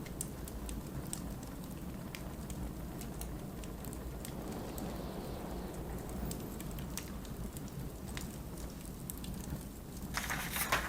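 Wood fire crackling with scattered sharp pops over the steady low rumble of blizzard wind. Near the end, a paper book page turns with a short swish.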